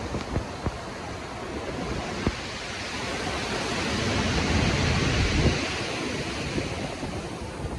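Stormy sea: waves rushing, a surge building to a peak about five seconds in and then easing off, over a low wind rumble. A few sharp taps stand out near the start.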